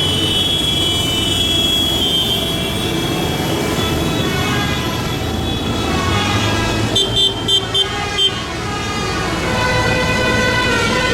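Tractors in a procession driving past with engines running, and a vehicle horn giving several short beeps in quick succession about seven seconds in.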